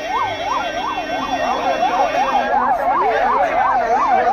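Electronic vehicle siren wailing in quick, even up-and-down sweeps, about three a second.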